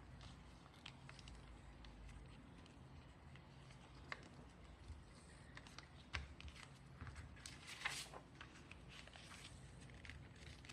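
Faint rustles and light taps of a sheet of paper being handled and folded, with a brief louder rustle about eight seconds in.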